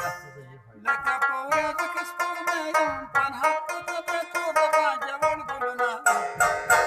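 Rubab being plucked in fast runs of ringing notes. Playing picks up again after a short lull about a second in.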